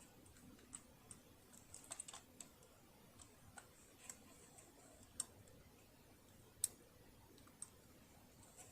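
Scattered faint clicks and light taps, about a dozen irregularly spaced, with two sharper clicks around five and six and a half seconds in: small tools and metal parts being handled while a sewing machine is taken apart.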